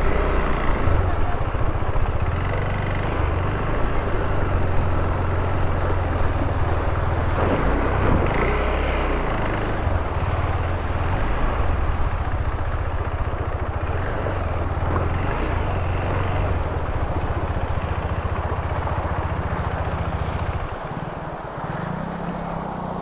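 Single-cylinder adventure motorcycle engine running steadily while riding, with one sharp knock about seven seconds in. The engine gets quieter and its note changes about two seconds before the end.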